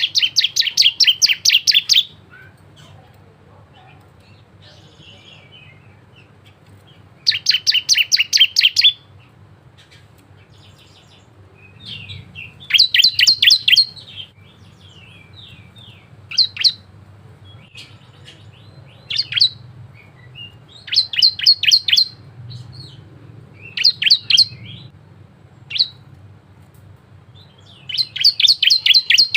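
Ciblek (bar-winged prinia) singing: bursts of rapid, sharp, high chips, each burst about one to two seconds long, separated by pauses of a few seconds, with shorter single phrases in between.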